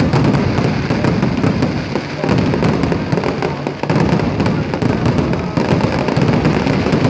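Fireworks display of aerial shells (fancy amittu) bursting: a dense, unbroken run of overlapping sharp reports and crackling over a steady low rumble.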